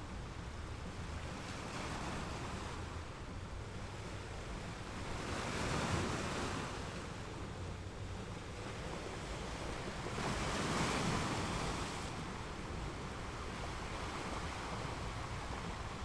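Ocean surf: a steady wash of breaking waves, with two louder surges about five and ten seconds in, each swelling and falling away over a couple of seconds.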